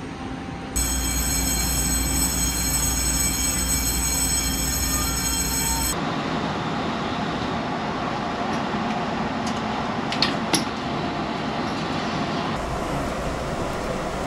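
Passenger train running on the rails, a steady rolling noise. For the first few seconds a set of high, steady whining tones sits over it, and two sharp clicks come about ten seconds in.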